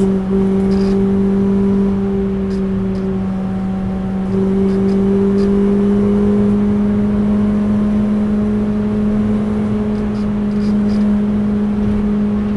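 Renault Clio RS 200's 2.0-litre four-cylinder engine held at high revs under throttle, heard from inside the cabin over tyre and road noise. Its note climbs slowly as the car gains speed.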